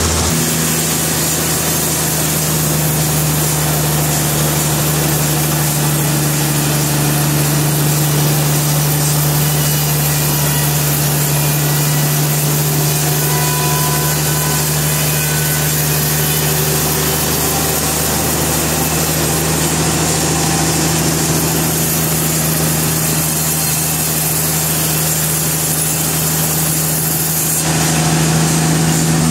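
Sawmill machinery running steadily: a loud, constant engine drone with a low hum, its tone shifting slightly near the end.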